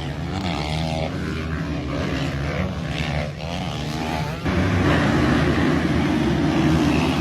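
Motocross dirt bike engine revving up and down, getting louder about halfway through.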